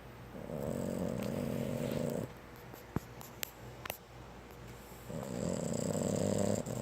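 Boston Terrier snoring in its sleep: two long, buzzy snores about two seconds each, with a pause of about three seconds between them. A few small clicks fall in the pause.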